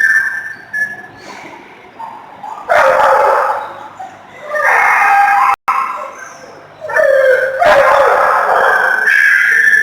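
Dogs barking in shelter kennels, in loud bouts with quieter gaps between, the last bout running longest.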